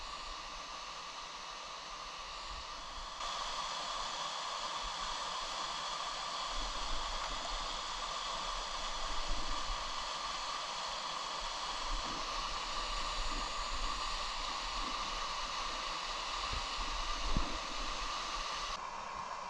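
Steady rushing of a mountain stream and waterfall, a full even hiss that gets louder suddenly about three seconds in and drops back near the end, with a few brief low bumps.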